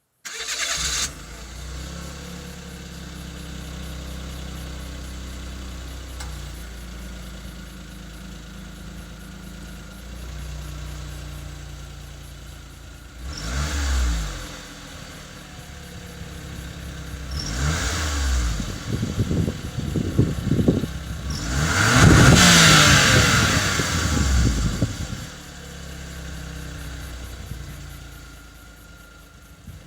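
Exhaust of a Suzuki Wagon R MH21S's K6A three-cylinder engine through its stock muffler: the engine comes on abruptly and idles steadily, then is revved and released several times, with short blips, a quick run of revs and one longer, louder rev before settling back to idle. Being the factory muffler, it is very quiet.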